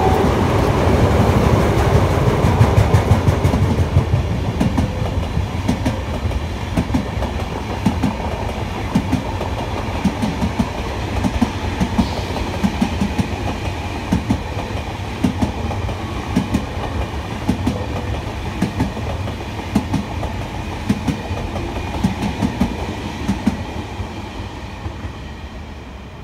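Trains passing close by: a heavy rumble, loudest in the first few seconds while a car-carrier freight train goes by, then a pair of coupled double-deck TGV Duplex sets passes with a regular clickety-clack of wheels over rail joints, about two knocks a second. The sound fades away near the end.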